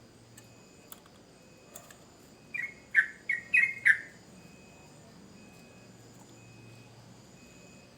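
Yellow-vented bulbul singing one short, bubbly phrase of about five quick falling notes, a little past two seconds in.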